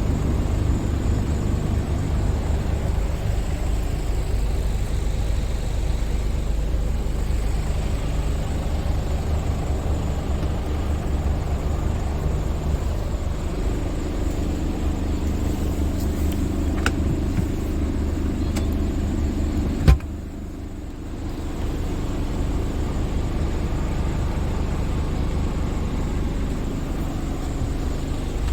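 Scania R450 truck's 13-litre inline-six diesel running steadily. About twenty seconds in there is a sharp click, after which the sound briefly drops before the engine sound returns.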